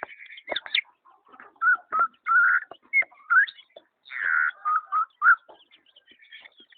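A bird calling in a run of short whistled chirps, several of them rising in pitch, with small gaps between them.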